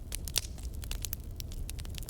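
Wood fire crackling in a fireplace: irregular sharp snaps and pops over a low steady rumble, with one louder snap about a third of a second in.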